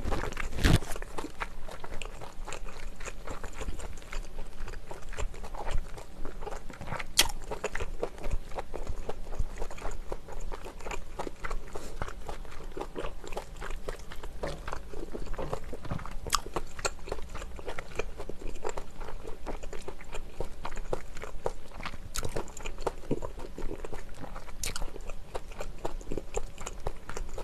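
Close-miked chewing and mouth sounds of a person eating malaxiangguo, a spicy Chinese stir-fry with scallops and glass noodles: soft smacking and crunching all the way through, with a few sharp clicks.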